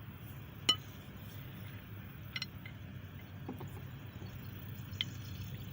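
A few light metal clicks and clinks as the steel pieces of a camshaft bearing remover/installer tool are handled, the first, a little under a second in, the loudest, over a steady low hum.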